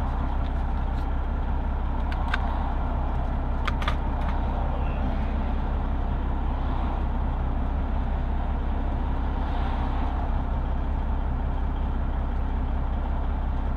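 Semi-truck's 1996 Detroit Diesel engine idling steadily, with a few light clicks a couple of seconds in.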